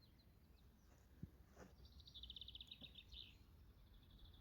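Faint songbird: a rapid trill of high repeated notes about two seconds in, then a few softer chirps, over quiet early-morning outdoor ambience.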